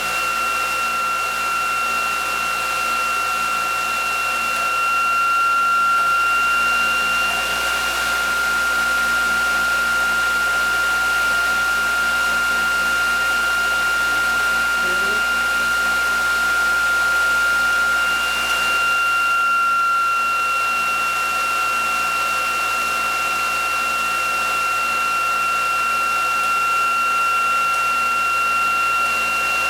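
Electric prime mover spinning the ReGenX generator rig at steady speed, with a high steady whine over a whirring hum. About two-thirds of the way through, the pitch dips slightly.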